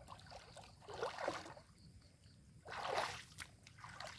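Water splashing twice, about a second and a half apart, each splash a short noisy burst.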